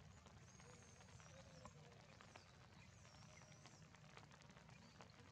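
Faint rain falling: a low, even hiss with scattered ticks of drops. Two thin, high wavering whistles come through, one about half a second in and another about three seconds in.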